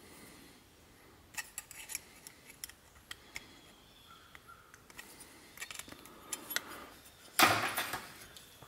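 Light metallic clicks and clinks of channel-lock pliers working thin copper petals as they are bent around, with a louder brief scrape near the end.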